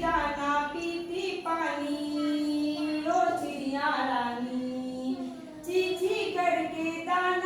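A voice singing a children's song with long, drawn-out held notes.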